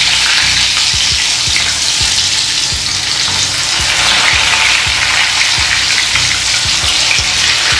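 Moist cassava bammies deep-frying in hot oil in a cast-iron skillet: a loud, steady sizzle with light scattered crackles, the wetness of the just-drained, milk-soaked bread boiling off in the oil.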